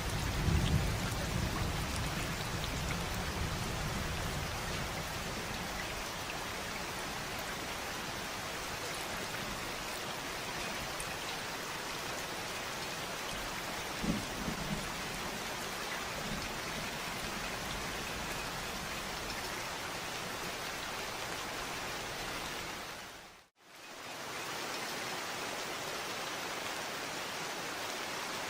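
Steady heavy rain, with a low rumble of thunder in the first few seconds that dies away. About three-quarters of the way through the rain fades out to silence for a moment and comes straight back, a loop or edit point.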